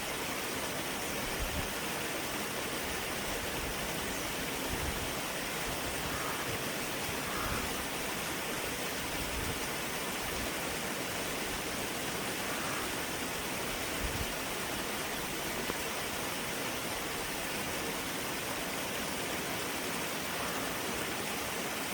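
Creek water running steadily over stones, an even, continuous rush with no breaks.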